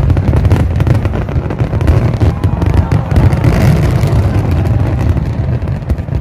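Fireworks going off in a dense barrage: a continuous deep rumble of booms with rapid crackling pops, and a hissing swell about three and a half seconds in.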